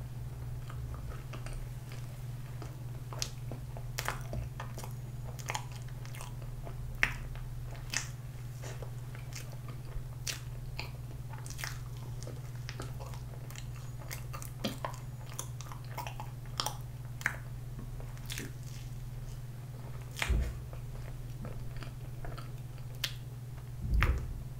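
Close-miked eating of soft bread topped with whipped cream: wet chewing and smacking with frequent sharp mouth clicks over a steady low hum. Two dull low thumps come late, the louder one near the end.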